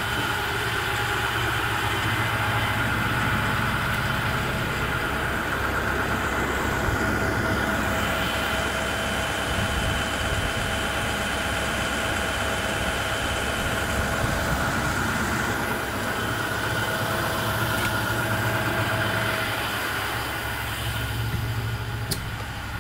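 2010 IC CE school bus's diesel engine idling steadily.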